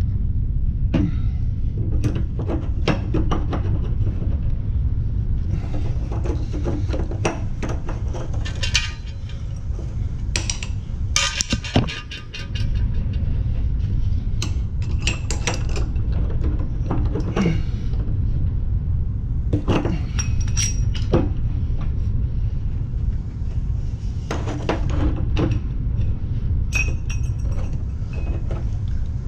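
Metal clinks, knocks and scrapes of hand tools working on a water heater as its lower heating element is removed, over a steady low rumble.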